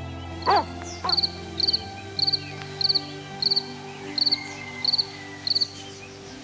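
A cricket chirping in an even rhythm, a chirp about every 0.6 seconds, each a quick run of three or four pulses. A dog gives one short yelp about half a second in.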